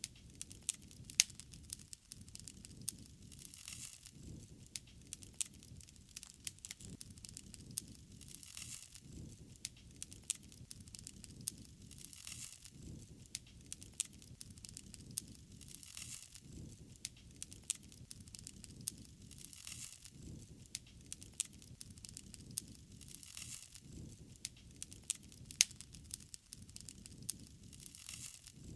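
Wood fire crackling, with frequent sharp pops and snaps over a soft hiss that swells and fades every few seconds.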